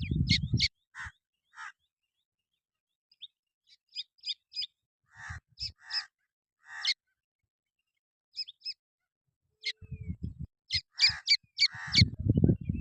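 Baby birds chirping in short, high calls that come in quick clusters of two to five, with pauses between. A low, rapidly pulsing rumble sounds at the very start and again from about ten seconds in.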